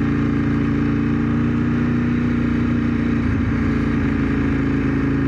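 1997 Ducati 916's 90-degree V-twin engine running at steady revs, heard from on the bike while riding, with a brief waver in the engine note a little after halfway.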